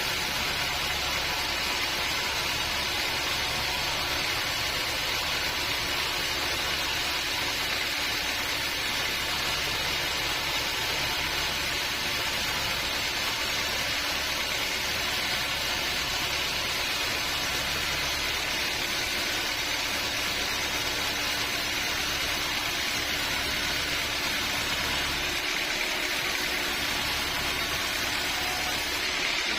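Sawmill machinery running steadily, a constant motor drone with a hissing, rushing edge; the low rumble drops away near the end.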